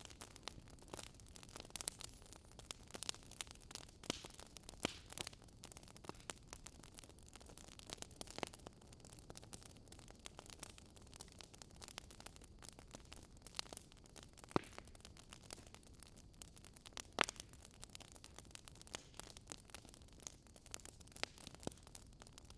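Faint crackling of a burning wood campfire: irregular sharp pops and snaps over a soft steady hiss, a few louder snaps standing out.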